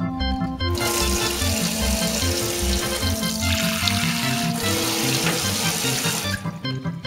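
A loud steady hiss with faint crackles starts just under a second in and stops about a second before the end, over organ background music with a plodding bass line.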